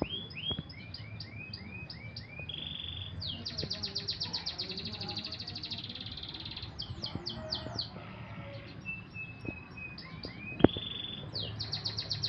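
Songbirds singing: repeated downslurred whistles and fast, rapid trills, one phrase after another. A single sharp click near the end.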